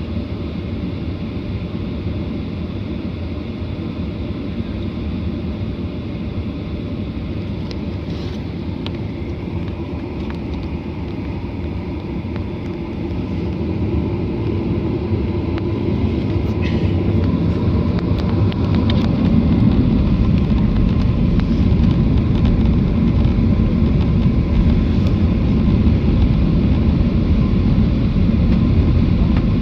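Airliner engine and airflow noise heard inside the passenger cabin: a steady rumble that swells louder and deeper from about halfway through and then holds, as the engines build thrust for takeoff.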